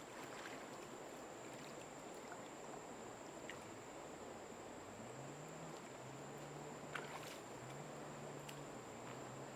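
Faint moving water with a steady high-pitched tone throughout. A low, repeating hum comes in about halfway through.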